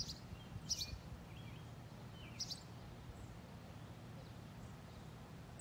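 Quiet outdoor ambience: a few short bird chirps, the clearest about a second in and again a couple of seconds later, over a steady low background hum.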